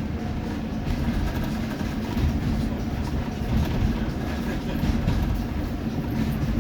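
Steam-hauled passenger train running along the track: a steady rumble of carriage wheels on the rails.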